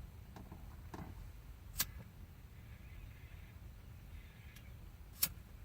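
Two short sharp clicks about three and a half seconds apart over a low steady hum.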